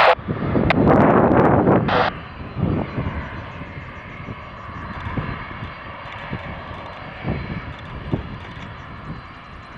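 Boeing 767 jet engines running at low power, a steady whine and rumble that is loudest in the first two seconds and then settles lower. Two short bursts of air-band radio crackle come right at the start and about two seconds in.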